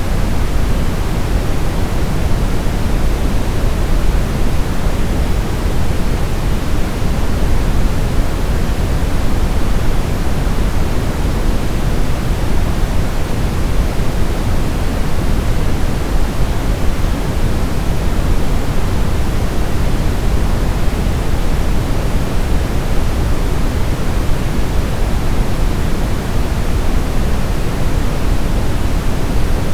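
Steady electronic white noise of the kind played as a baby sleep aid: an even, unbroken hiss, weighted toward the low end so it sounds deep and soft.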